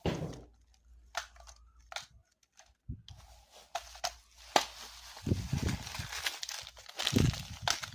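Packaging being handled: crinkling and tearing, with scattered sharp clicks and knocks that grow denser in the second half.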